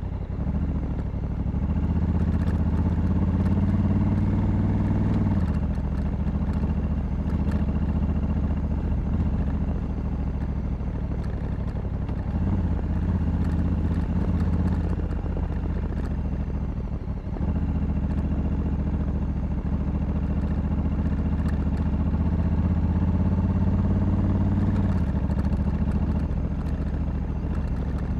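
Honda Africa Twin 1100's parallel-twin engine running under way, its note climbing gently and then dropping off sharply about five seconds in, again around fifteen seconds and around twenty-five seconds, as the throttle is eased or the DCT gearbox changes gear.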